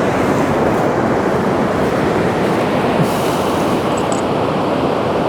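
Ocean surf at the water's edge: a steady rushing noise with no let-up.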